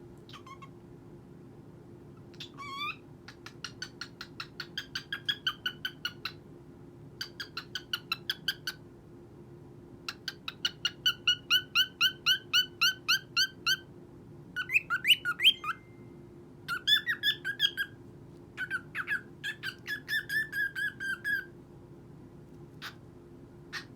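Pet cockatiel calling in about six runs of quick, evenly repeated short chirps, several notes a second, with short pauses between the runs.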